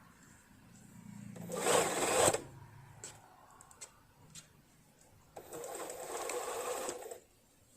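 A Riccar Bernina Holidayne 1090 home sewing machine runs twice briefly: about a second in, and again for nearly two seconds later on. A few sharp clicks fall between the runs. The machine's reverse feed has seized from about a year of disuse.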